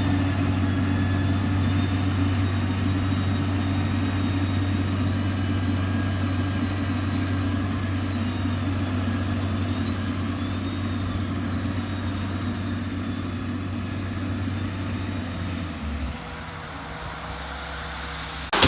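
Heavy diesel engine of road-construction equipment running steadily. About 16 seconds in, its note drops lower and quieter.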